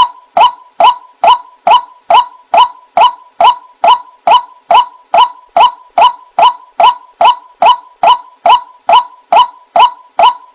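White-breasted waterhen (ruak-ruak) calling, played as a bird-lure recording: the same short, loud note repeated at a very even pace, a little over two notes a second.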